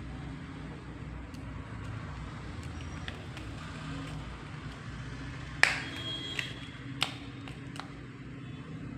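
Scattered light clicks and knocks over a steady low hum; the loudest knock comes a little past halfway with a brief high ring after it, and a second sharp click follows about a second and a half later.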